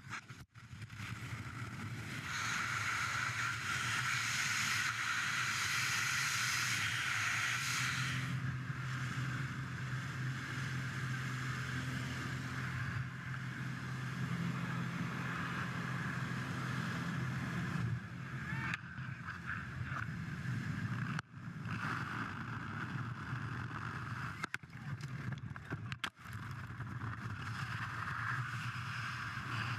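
Steady droning of a light aircraft's propeller engine with wind rush, broken by several abrupt cuts.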